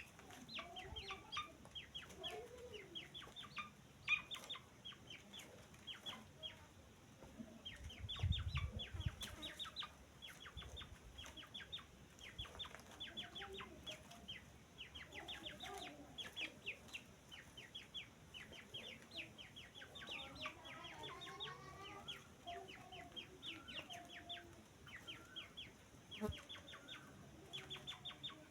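Francolin (teetar) chicks peeping: a steady stream of short, high, sharply falling chirps, several a second, in irregular bursts. There is a brief low thump about eight seconds in.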